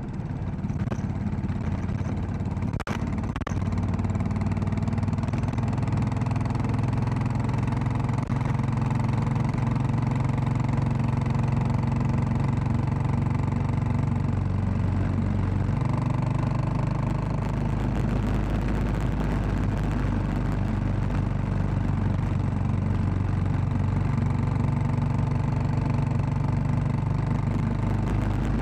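Royal Enfield Classic 500's single-cylinder engine running steadily as the bike is ridden, its pitch changing about three seconds in and again about halfway through. A sharp click just before the first change.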